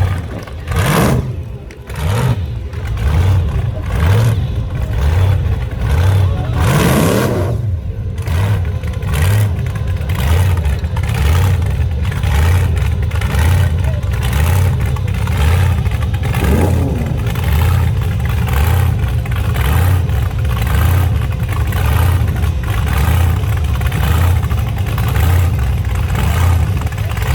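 Rat rod engines running loud with a deep pulsing rumble as the cars roll past in the parade, blipped up in pitch about a second in, again around seven seconds and once more near sixteen seconds.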